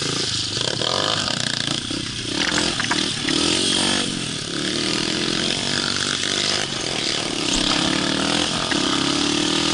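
Pit bike's small single-cylinder four-stroke engine revving, its pitch rising and falling several times as the throttle is opened and eased off.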